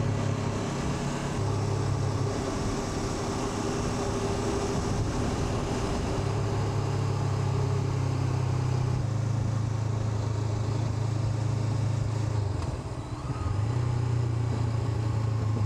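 Honda NX500 motorcycle's parallel-twin engine running at a steady cruise under a rider-mounted microphone, with wind hiss over it. The engine note drops briefly about three-quarters of the way through, then picks up again.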